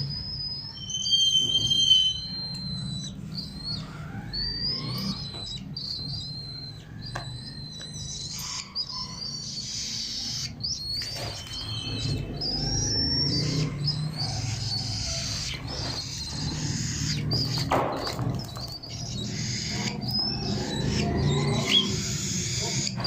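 Pet cockatiels chirping and whistling repeatedly in short high calls, with scattered clicks throughout.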